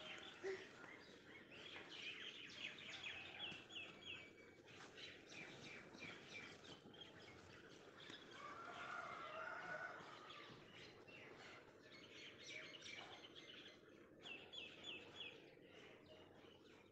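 Faint chirping of small birds, with a quick run of repeated chirps twice.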